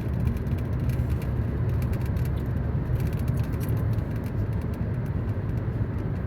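Steady road noise inside a moving car's cabin: tyre and engine rumble at highway speed.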